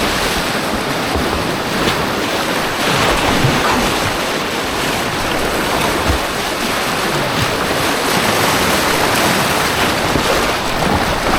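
Rushing white water of an artificial slalom course, a loud steady churning close to the kayak.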